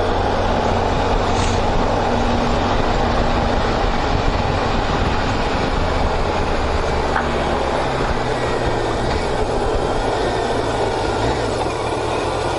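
Motorcycle riding at road speed: steady wind rush over the microphone with the engine running underneath, its note shifting about seven seconds in.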